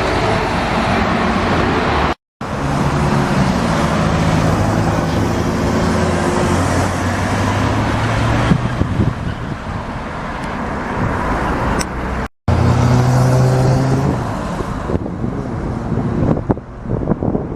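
Motorcycle engine running steadily at road speed under heavy wind and road noise. The sound is broken twice by abrupt cuts to silence.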